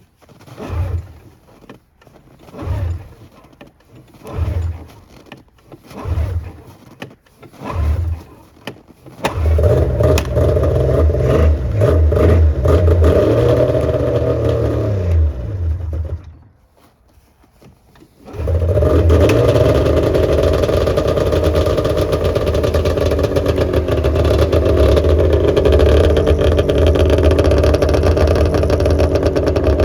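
1996 Arctic Cat ZRT 600's three-cylinder two-stroke engine cold starting after a night at about zero degrees: it is cranked over about five times before it catches about nine seconds in, runs with a few revs, cuts out briefly, then starts again and keeps running steadily.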